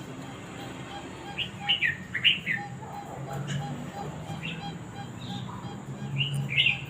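Short, high-pitched animal chirps or squeaks, a quick run of them about a second and a half in and another near the end, over a steady low hum.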